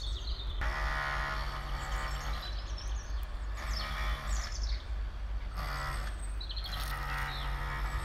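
Birds chirping, with short high calls scattered through. Under them runs a steady low rumble. A pitched sound with many even overtones comes and goes in stretches of a second or two, about a second in, near the middle and near the end.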